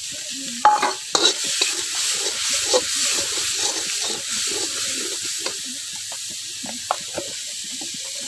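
Onion and red chilli paste frying in oil in an aluminium kadai, sizzling steadily while a metal spatula stirs and scrapes against the pan, with a couple of clatters about a second in. The scraping eases off in the second half while the sizzle goes on.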